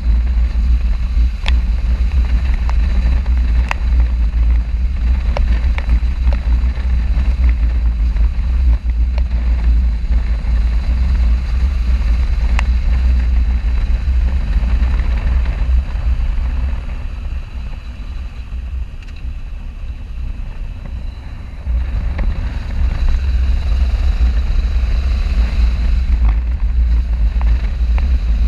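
Wind and road noise of a moving motorcycle, heard through an action camera's microphone: a steady, heavy low rumble of wind buffeting. It eases off for about five seconds past the middle, then comes back abruptly.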